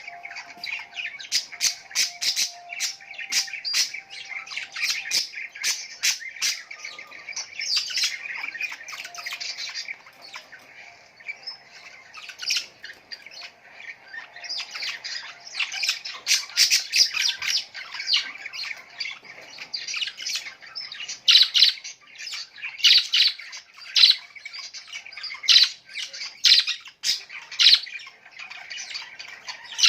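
Many small birds calling together: a dense, unbroken chatter with frequent short, sharp squawks and chirps on top, the sharp calls coming thicker and louder in the second half.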